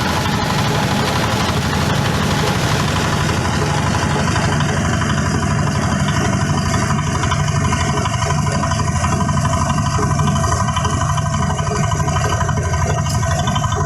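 Rice-husk grinding machine running steadily, a loud continuous drone with a hiss above it; the hiss thins out about four seconds in, leaving a steadier hum.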